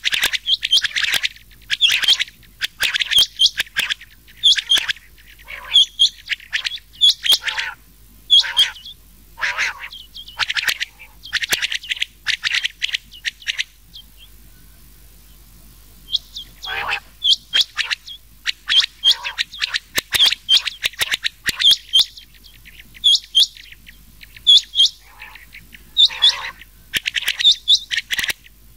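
Rain quail and common quail calling in a mixed lure track for quail hunting: quick clusters of short, sharp repeated notes, with a pause of about two seconds near the middle.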